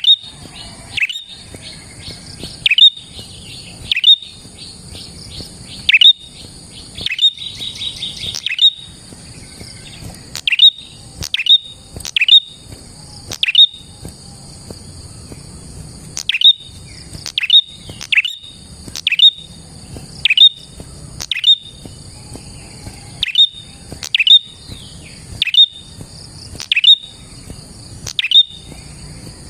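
Prenjak songbird calling with sharp, high chips that drop in pitch. The chips come in a quick run over the first eight seconds or so, then settle to about one a second. A steady high buzz runs underneath.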